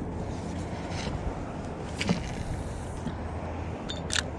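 Steady low rumble of road traffic going by, with a couple of sharp clicks, one about two seconds in and one near the end.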